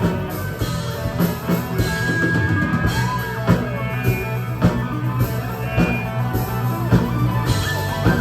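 Live rock band playing: electric guitar over bass and drum kit, continuous and loud.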